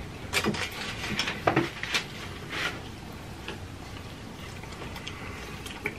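Chewing and mouth smacking as grilled beef is bitten off skewers: scattered short wet clicks and smacks, busiest in the first few seconds and sparser after.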